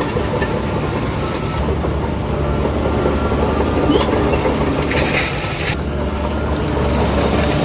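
Heavy diesel earthmoving machinery running steadily, with metallic clattering, and a short hiss about five seconds in.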